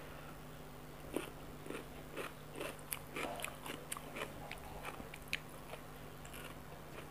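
Close-up crisp crunching and chewing of raw cucumber: a quick, irregular run of crunches starting about a second in and ending about five and a half seconds in.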